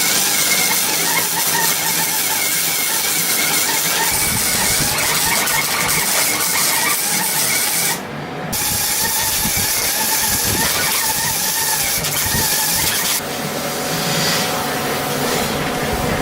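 Continuous harsh metalworking noise on the car's seat mounts, throwing sparks, with a short break about eight seconds in and a change in tone about thirteen seconds in.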